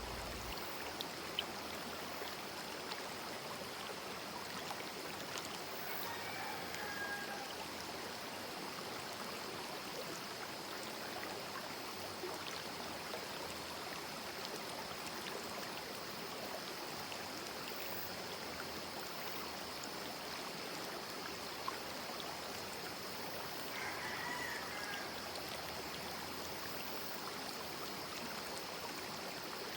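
Small river stream running over rocks, a steady babbling rush of water. A bird chirps faintly twice, once early and once near the end.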